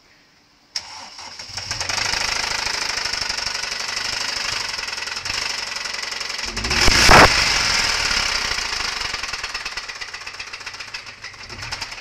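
A Ford Puma's blown engine suddenly fires about a second in and runs harshly with a dense, rapid clatter. It surges loudest about seven seconds in, then settles and fades a little toward the end.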